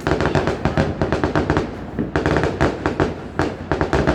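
Fireworks going off in rapid succession: a dense run of sharp bangs and crackles, thickest about two seconds in and again near the end.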